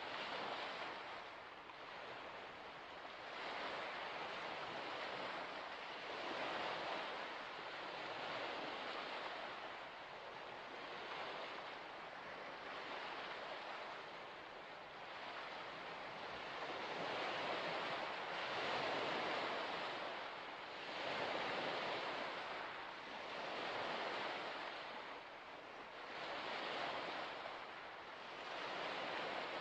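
Small waves washing onto a shore, the rush of water rising and falling every two to three seconds.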